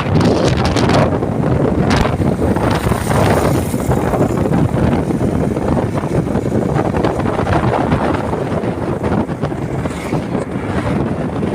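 Wind buffeting the microphone of a moving motorcycle, a loud, uneven rush over the engine and road noise.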